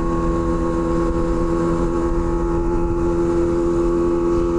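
Kawasaki Ninja ZX-25R's 250 cc inline-four running through an SC Project exhaust at a steady cruising speed, its note holding one pitch, with wind rushing over the microphone.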